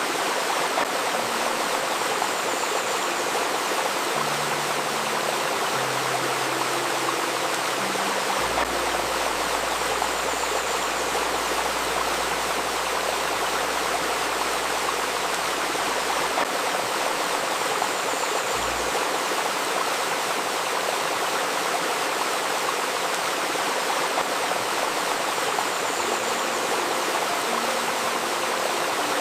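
Babbling river running steadily, with a faint 528 Hz healing tone and soft low held tones that shift in pitch every second or two underneath.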